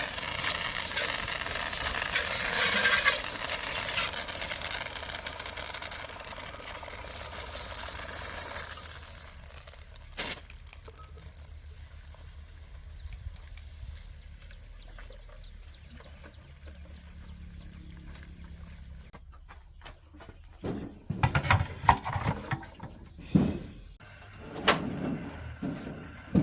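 A broad hissing rush fades away over the first several seconds. After that, insects chirp steadily in the background, and scattered knocks and clatters come in near the end.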